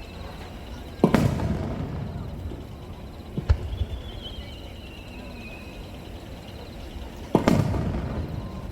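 Japanese aerial firework shells bursting: two loud booms about six seconds apart, each trailing off in a long echoing rumble. Between them comes a single sharp crack and a thin whistle that falls in pitch.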